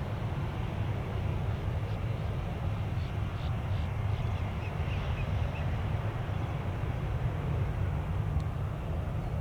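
Jet airliner engines rumbling steadily at a distance, a deep low roar without changes in pitch.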